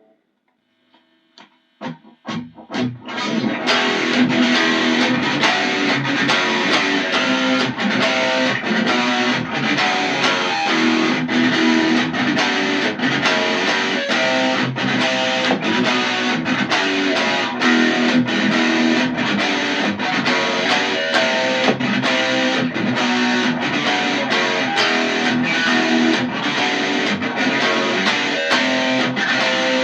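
Electric guitar playing a song intro riff: a few single picked notes, then steady, driving rhythmic playing from about three seconds in.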